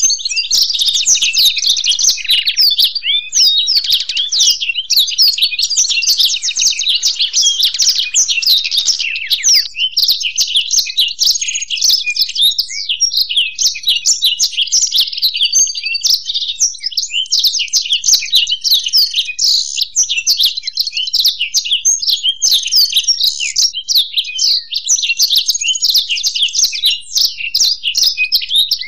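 Blackthroat (black-throated canary) and European goldfinch singing together in a dense, unbroken stream of rapid twittering chirps and trills.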